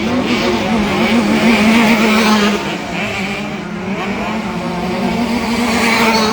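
Several 65cc two-stroke motocross bikes racing, their engines revving up and down with overlapping, wavering pitches.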